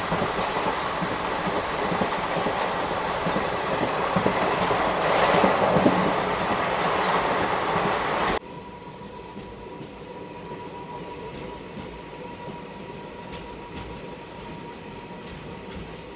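Passenger train coaches running at speed, heard from an open coach doorway: a steady rush of wheels on rail and wind, loudest around five to six seconds in. About eight seconds in the sound cuts abruptly to a much quieter, steady running sound with a faint steady whine.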